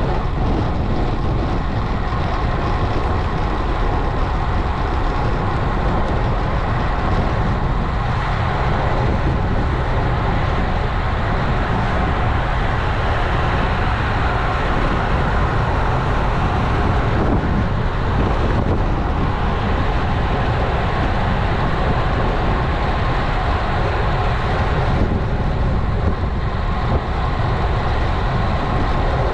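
Wind rushing over an action camera's microphone along with tyre noise from a road bike in motion: a steady, loud noise that is heaviest at the low end.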